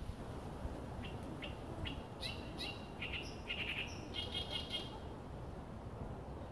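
Small songbirds chirping, a run of short high chirps and quick twittering trills that lasts about four seconds and then stops, over a steady low rumble.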